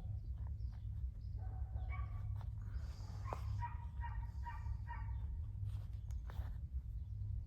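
Short pitched animal calls, with a quick run of about four a second near the middle, over a steady low hum.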